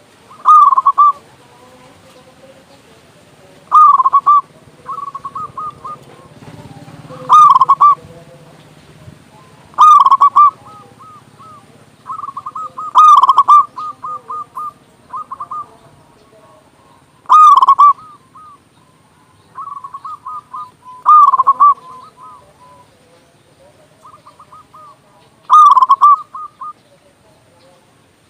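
Zebra dove (perkutut) cooing: a string of loud, quavering coo phrases every three to four seconds, with quieter runs of short staccato notes in between.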